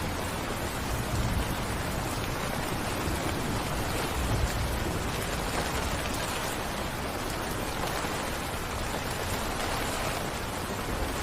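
Steady rain falling, an even patter of drops with a low rumble that swells briefly a couple of times.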